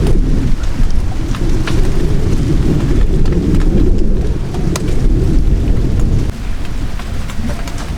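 Rain falling, with many sharp drop ticks over a heavy low rumble that eases off about six seconds in.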